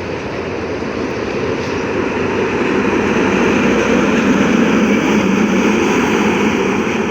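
Steady road noise of heavy trucks passing on a highway, tyres and engines, slowly growing louder.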